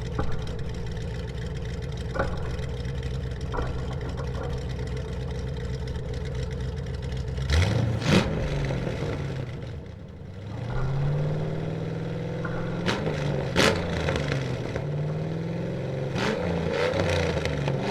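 Engine sound idling steadily for about seven seconds, then revving in repeated rising glides. Sharp clacks land over it, loudest about 8 and 13.5 seconds in, like toy trucks hitting plastic tiles.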